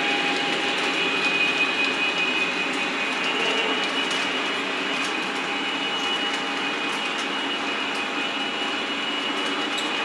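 O-scale model train running steadily around the track, MTH Railking diecast flatcars rolling behind the locomotive: an even rolling rumble of metal wheels on rail with a steady high motor whine and a few faint clicks.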